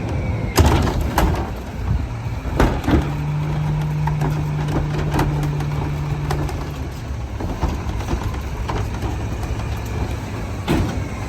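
Garbage truck engine running at low revs, with several sharp metal clanks and a steady low hum lasting a few seconds from about three seconds in.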